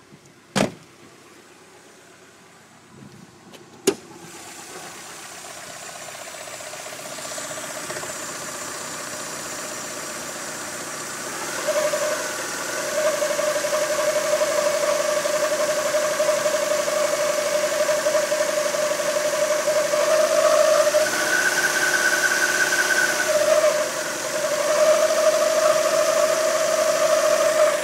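Mazda MX-5 NB 1.6's four-cylinder engine running after a couple of sharp clicks, building up to a steady whining tone held at raised revs, with a brief higher-pitched spell near the end. This is the odd noise the owner hears around 1500–1800 rpm since the crankshaft gear's worn key and keyway were fixed with Loctite.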